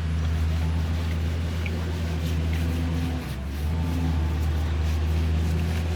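JCB diesel engine running steadily at a low, even speed, with a brief drop in its note a little past halfway before it picks back up.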